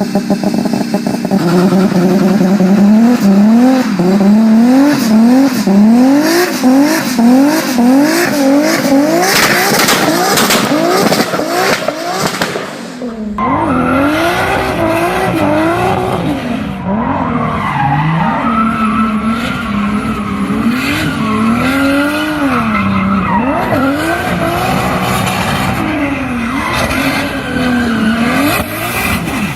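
Big-turbo Toyota Supra engine revving hard, its pitch climbing and dropping sharply over and over, with crackles around ten seconds in. About 13 s in the sound changes abruptly to a deeper, fuller engine note that rises and falls unevenly as the throttle is worked.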